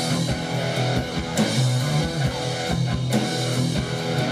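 Live rock band playing an instrumental passage between sung lines: electric guitar and bass over a drum kit keeping a steady beat.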